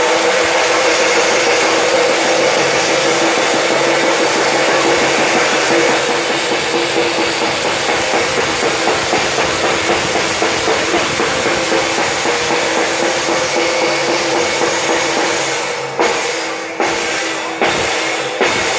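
Fast, continuous drumming with ringing, cymbal-like crashes, breaking up into a few separate hits in the last few seconds before it stops.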